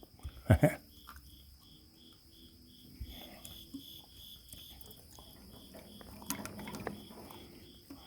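A cricket chirping steadily, about four high chirps a second. A sharp knock comes about half a second in, and a few lighter taps follow later.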